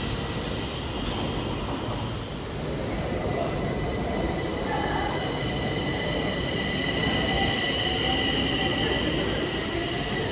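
Stockholm Metro train running on the track, its wheels squealing as steady high tones over a continuous rumble; the squeal grows stronger about halfway through.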